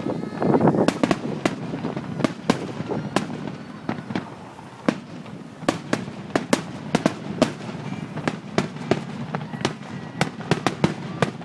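Fireworks display: a rapid, irregular run of sharp bangs and crackling pops. They are densest in the first second or so, then come a few each second.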